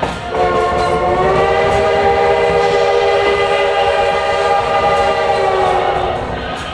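Steam whistle of Baldwin 2-8-2 locomotive #152 blowing one long blast of about six seconds, several notes sounding together, its pitch sagging slightly as it dies away near the end. The train's running rumble continues underneath.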